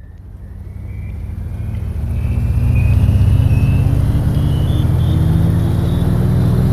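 A low, engine-like drone that fades in over the first few seconds and then holds steady and loud, its pitch slowly rising.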